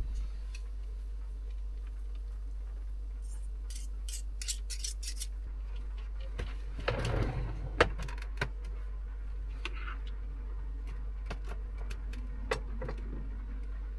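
Scattered clinks and clicks of dishes and cutlery being handled, with a short clatter about seven seconds in and a louder single knock just after, over a steady low rumble.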